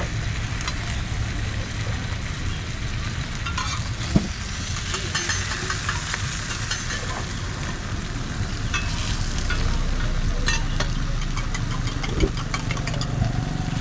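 Roti frying in oil on a flat griddle, sizzling and crackling steadily over a low hum, with a couple of sharp knocks.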